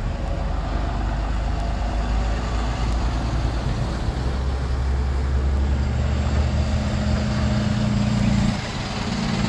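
Heavy tow truck engines running as the trucks drive past, a steady low diesel drone that grows stronger about halfway through and dips briefly near the end.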